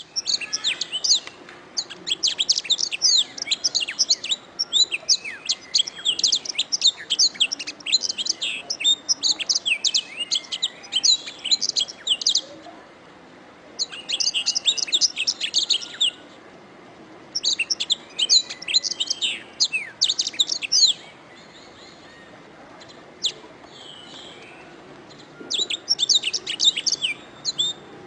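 Domestic canary singing: long runs of rapid, high notes in several bursts, the longest lasting about twelve seconds, separated by pauses of a second or two.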